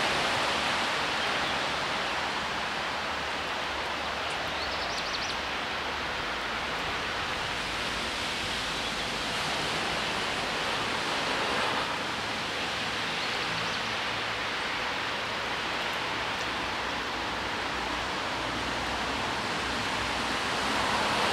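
Steady, even rushing noise, with a brief faint high chirp about five seconds in.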